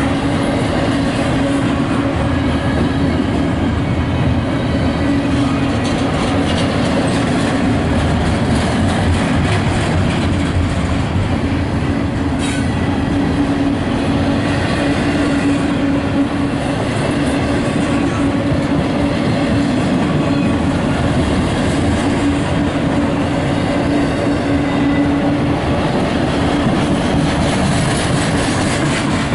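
CSX double-stack container freight train passing close by, a continuous rumble and clatter of steel wheels on the rails with a steady droning tone underneath.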